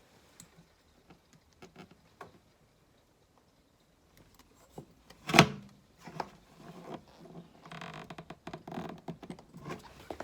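Small clicks and rattles of hands fitting a link wire onto the fridge ventilator's thermo switch terminals, with one sharp knock about five seconds in and a busier run of small clicks near the end.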